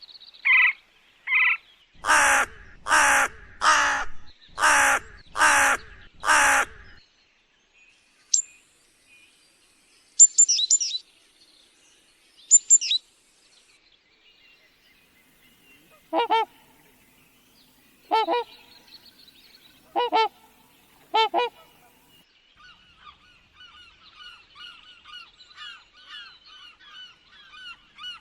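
Parrots calling: a run of six loud, harsh squawks about a second apart, then a few sharp high squeaks, four more spaced calls, and fast repeated chattering through the last few seconds.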